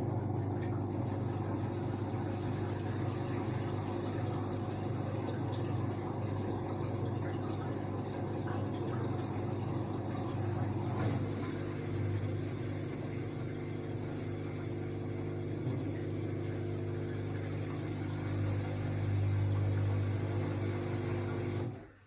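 AEG Lavamat L62850L washing machine running with a steady low motor hum. The hum grows smoother about halfway through and cuts off suddenly just before the end.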